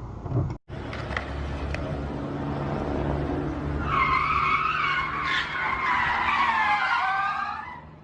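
Car tyres squealing in a skid lasting about four seconds, the pitch sliding down toward the end, over the steady running of a car engine.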